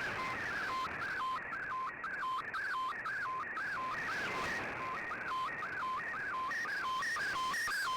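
Slow-scan television (SSTV) image signal received on shortwave: a warbling data tone broken about twice a second by a short, lower steady sync beep, one per picture line, over radio band hiss.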